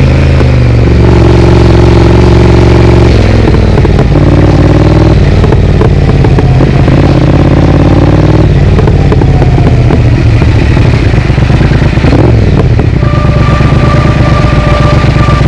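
Triumph Speed Twin's parallel-twin engine through an aftermarket Vance & Hines exhaust, revving up and dropping back several times as the bike accelerates and shifts through the gears. Brief crackling pops come from the exhaust as the revs fall.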